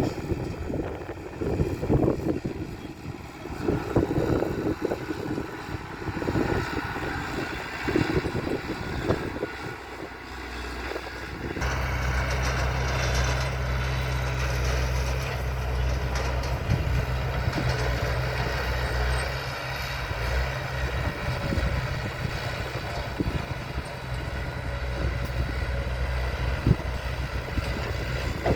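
Heavy earthmoving machinery's diesel engine running: uneven, fluctuating engine noise for about the first ten seconds, then an abrupt change to a steady low engine drone.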